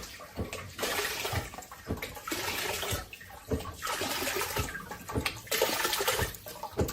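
Water pouring into a bowl, filling it, in several stretches with short breaks between.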